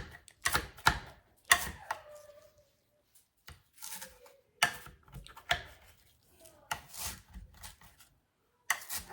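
Knife chopping romaine lettuce on a cutting board: sharp, irregular chops with short pauses between them.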